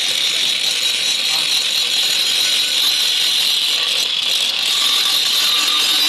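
A steady, loud mechanical whirring noise, running without a break, with a strong high hiss in it.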